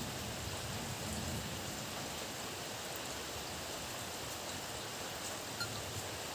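Steady heavy rain, an even hiss with scattered ticks of drops. A low rumble of distant thunder dies away about a second and a half in.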